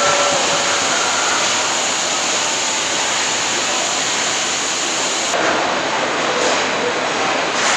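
Truck assembly plant floor ambience: a steady, loud hiss of machinery and air, with a brief faint tone near the start and an abrupt change about five and a half seconds in.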